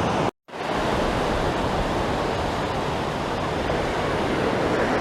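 Ocean surf washing steadily onto the beach, a constant hiss of breaking waves; the sound drops out for a split second near the start.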